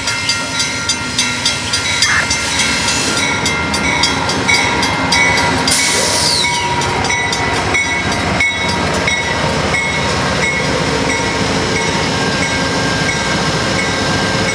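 Amtrak passenger train rolling past: wheels clicking in a quick even rhythm over rail joints for the first few seconds, then a steady rolling rumble. A brief loud hiss with a falling whine comes about six seconds in.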